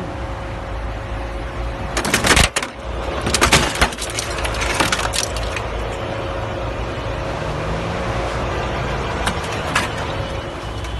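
Car collision: a loud crunching impact about two seconds in, then a second, longer spell of crunching and breaking, over the steady low rumble of the vehicle.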